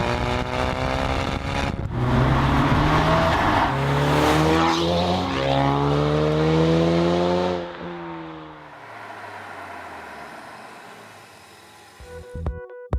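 Ford Mustang 2.3 EcoBoost turbocharged four-cylinder through a REMUS aftermarket exhaust, accelerating with the note climbing in pitch, with a short break about two seconds in. Just before eight seconds the engine backs off and the sound fades away. Music comes in right at the end.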